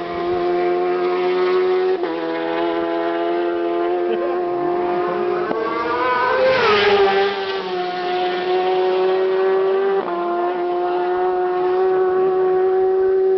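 Racing superbike engines at high revs as bikes race past on the road. One bike goes by close about six seconds in, its note rising then falling. A steady high engine note carries on throughout, dropping in sudden small steps a few times.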